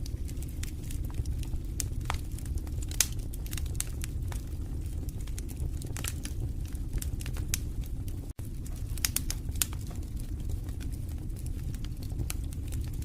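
Wood fire burning in a fireplace: irregular sharp crackles and pops over a steady low rumble of the flames. A split-second dropout comes about two-thirds of the way through.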